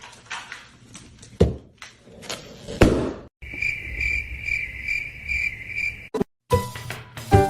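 A few knocks and thuds, then a steady cricket-like chirping, about two and a half pulses a second, for nearly three seconds. It cuts off, and music with piano-like notes starts near the end.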